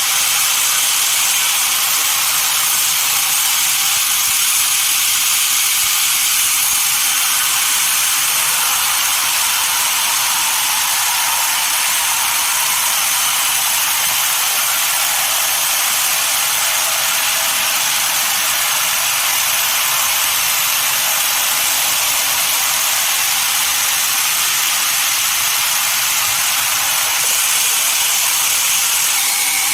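Sawmill saw cutting through a dense desert redwood log: a steady, high hiss that keeps on without a break.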